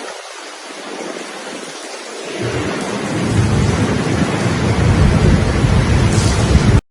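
Heavy rain hissing steadily during a thunderstorm. From about two and a half seconds in, a deep rumble of thunder builds and holds. The sound cuts off abruptly near the end.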